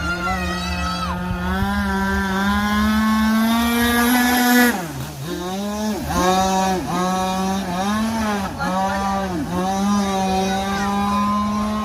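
Zenoah 26cc single-cylinder two-stroke petrol engine of an RC V-hull boat running at high speed. It climbs slightly to a peak about four and a half seconds in, then falls off sharply, and after that its speed dips briefly and picks up again about once a second as the throttle is eased and reopened.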